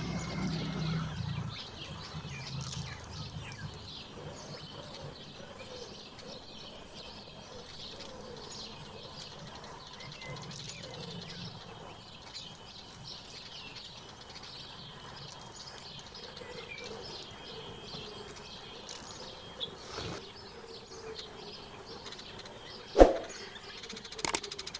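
Small songbirds chirping and twittering in many short, overlapping calls. Near the end a single sharp knock stands out as the loudest sound.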